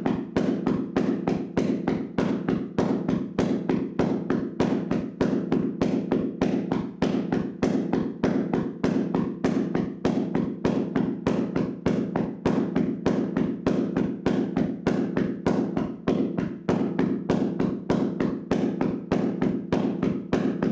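Hands slapping a person's body in a vigorous percussive tapping massage: a fast, even stream of slaps at about five a second.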